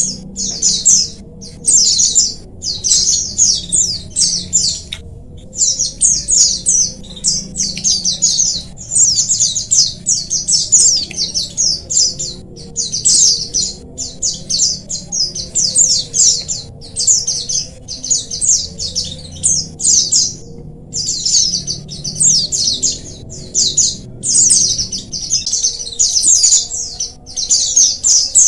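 A flock of white-eyes (pleci) chirping together: rapid, high-pitched twittering in bursts of a second or two with brief gaps, over a faint low hum.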